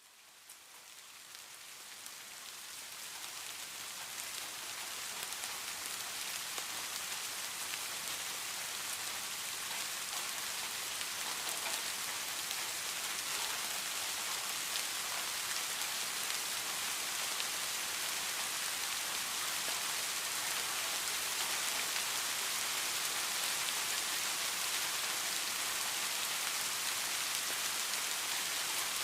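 Rain falling steadily as an even hiss, fading in from silence over the first few seconds.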